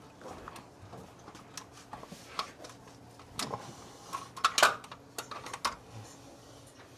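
Scattered light metallic clinks and knocks from hand work on the engine as the old distributor is pulled out of the 1970 Chevy C10, with the loudest cluster a little past the middle.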